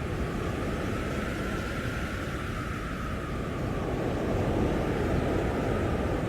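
Blizzard wind blowing hard, a steady rushing rumble with a faint high whistle that slowly falls in pitch, swelling a little past the middle.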